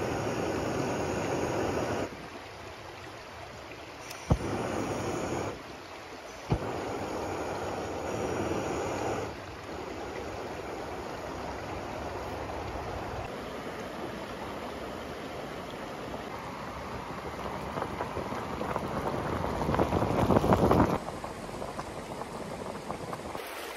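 Creek water rushing steadily, cut between several shots so its level jumps up and down. Two sharp clicks about four and six and a half seconds in, and the rushing grows louder for a few seconds near the end.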